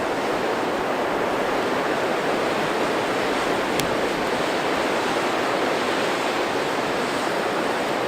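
Strong blizzard wind blowing steadily, with wind buffeting the microphone.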